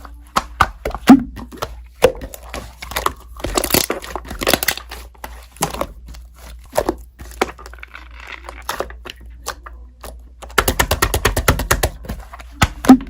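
Slime being squeezed and stretched by hand, giving irregular sticky clicks, pops and crackles, with a fast run of rapid pops near the end.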